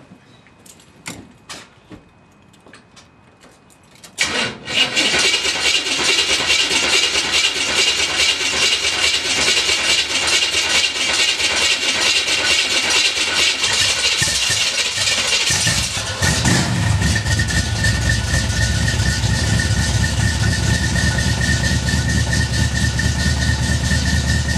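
1971 Chevrolet Nova's engine starting cold after sitting unused: about four seconds in it fires and runs loud, and about twelve seconds later the sound turns deeper, with a heavy low rumble and a steady high tone over it.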